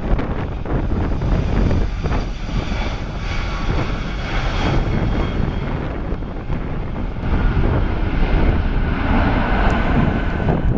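Airbus A340-600's four Rolls-Royce Trent 500 turbofans at takeoff power: a steady jet rumble with faint whining fan tones on top, a little louder in the second half.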